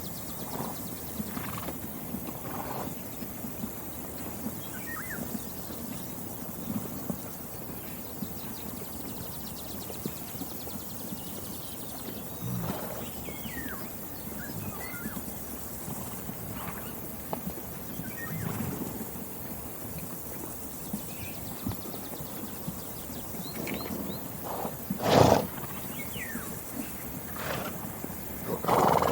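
Farm pasture sounds: small birds chirp now and then over a steady background. A short, loud animal sound comes about 25 seconds in, and another comes right at the end.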